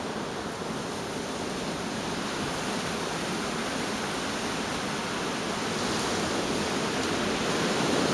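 Gale-force storm wind rushing steadily, growing a little louder toward the end.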